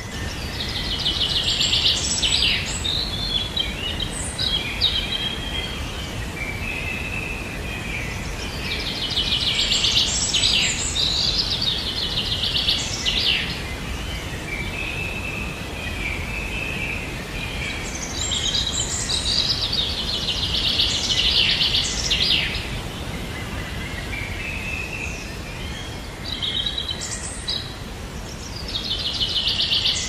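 Birdsong: a bird repeats a fast, high trilling phrase about every nine seconds, with softer chirps in between, over a steady low background rumble.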